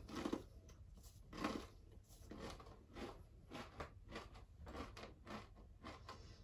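A person chewing a crunchy tortilla chip that has broken into crumbs: a run of faint crunching chews, roughly two a second.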